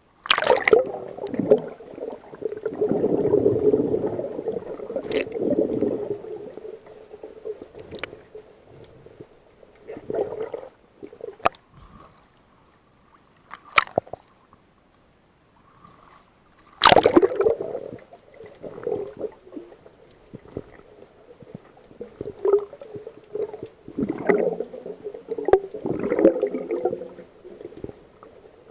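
Water gurgling and sloshing in irregular surges, with a couple of sharp knocks partway through.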